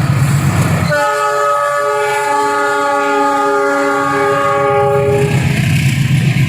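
Locomotive horn sounding one long blast of about four seconds, a chord of several notes, with a low rumble before and after it.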